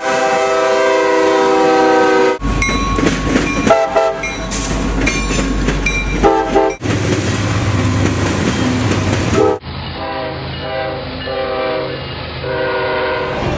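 Excursion train's locomotive horn sounding a long held chord, then train running noise with brief horn notes. Near the end comes a run of short horn blasts. The audio changes abruptly several times, as if spliced from separate recordings.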